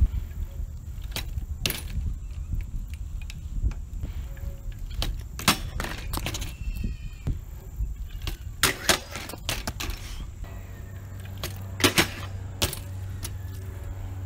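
BMX bike riding on concrete and hitting an obstacle: metal rattling and a series of sharp clanks, the loudest pair near the end, over a constant low rumble. A steady low hum comes in about two-thirds of the way through.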